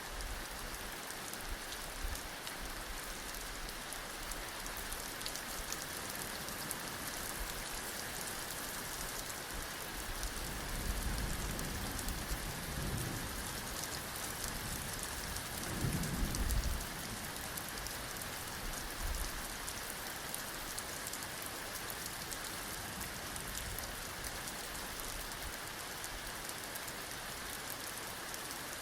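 Heavy rain falling steadily, a dense patter of drops. Low thunder rumbles about ten seconds in and again a few seconds later, the second briefly the loudest.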